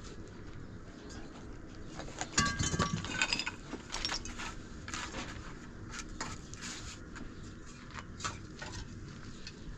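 Irregular knocks and clinks of objects being handled, with a louder, briefly ringing metallic clatter about two and a half seconds in.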